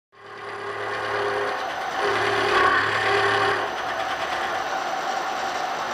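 A metalworking shop machine running and cutting, with a steady low motor hum under a dense grinding, cutting noise. The hum drops out a little over halfway through while the cutting noise goes on.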